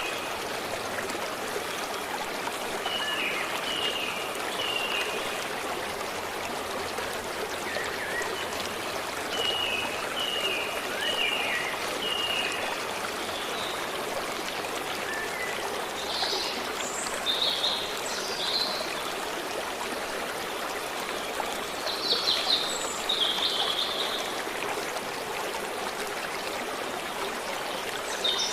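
A forest stream running steadily over stones. Birds sing over it: runs of short repeated chirps in the first half, then louder warbling phrases twice in the second half.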